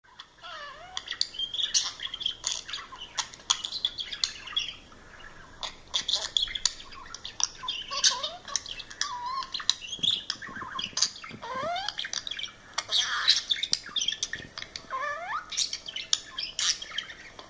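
Budgerigar chattering and warbling: a busy, continuous stream of chirps, clicks, squawks and short whistles that glide up and down in pitch.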